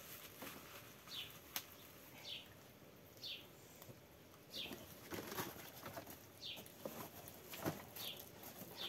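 A bird chirping over and over: short, high, falling chirps roughly once a second, with a few faint knocks.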